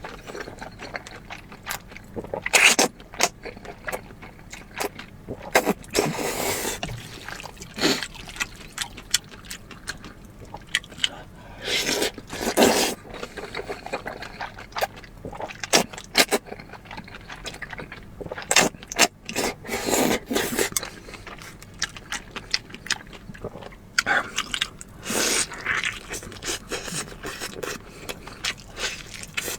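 Close-miked mukbang eating sounds: chewing and slurping of food in irregular bursts, with sharp clicks and scrapes.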